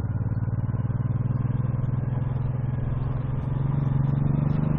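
Cruiser motorcycle engine running at steady low revs while riding, growing a little louder about four seconds in.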